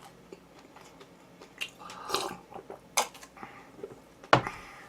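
Close-miked eating sounds: quiet biting and chewing, with a few short crisp clicks and a louder knock near the end.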